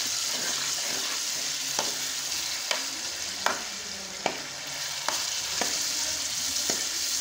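Chicken pieces frying in hot oil with browned onions in an aluminium pot, a steady sizzle, while a metal spoon stirs them and clicks against the pot about once a second. This is the chicken being fried in the browned onions before the garlic and ginger go in.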